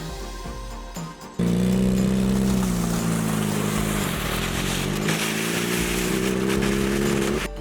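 Background music, then about a second and a half in a sportbike's engine cuts in loud, running at steady high revs with a brief dip in the middle, and stops abruptly near the end.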